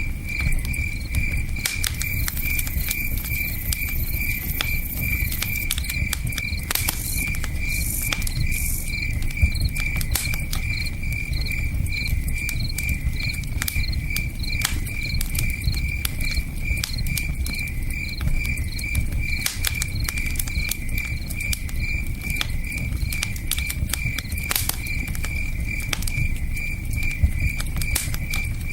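A cricket chirping steadily, about two and a half chirps a second, over a campfire crackling and popping with scattered sharp snaps, and the low steady rush of a river underneath.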